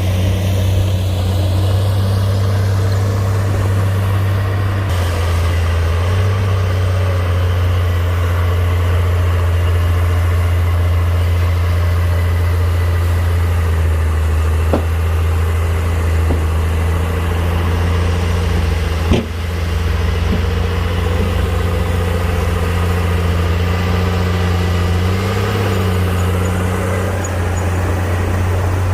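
Heavy diesel engine of earth-moving machinery running steadily, with a few short metallic clanks, the loudest about two-thirds of the way through.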